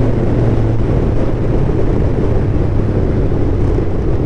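2021 Suzuki Hayabusa's inline-four engine breathing through an Akrapovic full-system exhaust, running steadily under way. Its note eases slightly lower about a second in.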